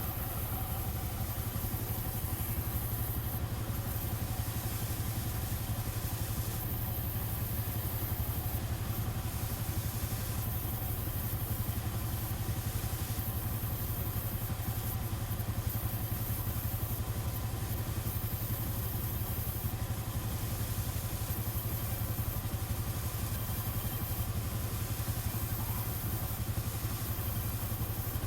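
A machine running steadily with a low, even rumble that does not change.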